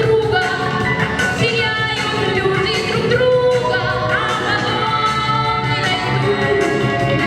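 Female solo voice singing held, sliding notes over an instrumental backing track.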